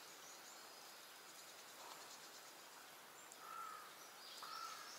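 Near-quiet outdoor ambience: a faint high hiss of insects, and a bird giving two short, even-pitched calls about a second apart in the last two seconds.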